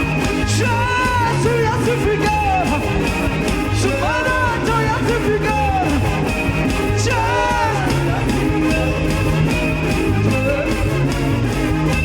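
Gospel worship band music: steady bass and drums with a melodic line that bends up and down in short phrases, about every three seconds.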